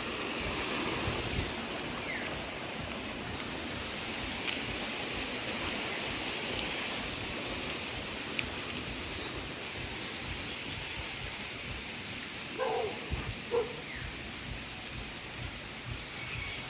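Small clear river flowing, a steady rushing hiss of water. Near the end there are two short calls.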